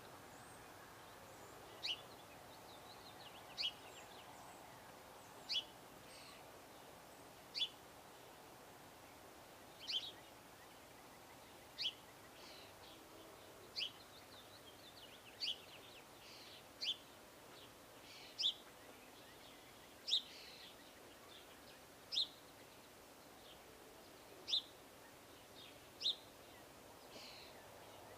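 A songbird giving short, sharp call notes, one about every one and a half to two seconds, over a faint steady background hiss.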